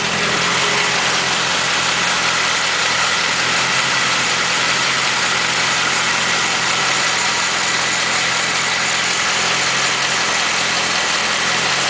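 Rebuilt 396 big-block V8 of a 1972 Chevrolet Camaro idling steadily.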